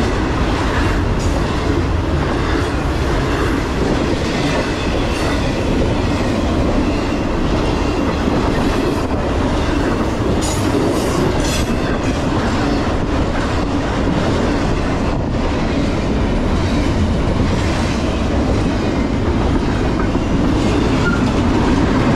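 Freight cars of a CSX intermodal train rolling steadily past, trailers on flatcars and then double-stack containers: a continuous rumble of steel wheels on the rails, with scattered sharp clicks.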